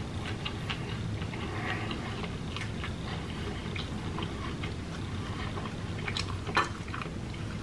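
Close-miked chewing of a mouthful of food, with small wet mouth clicks and smacks and a sharper click near the end, over a steady low hum.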